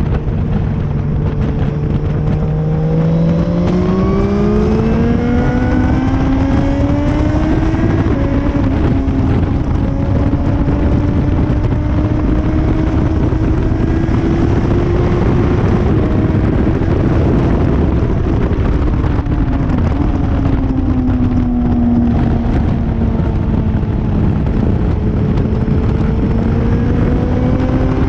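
Motorcycle engine at speed on a race track, over heavy wind rush on an onboard microphone. Its pitch climbs for several seconds, holds, falls away about two-thirds of the way through as the rider eases off, then climbs again near the end.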